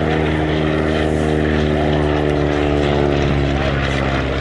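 Vintage propeller-driven piston-engined aircraft flying past low, its engine running as a loud, steady drone.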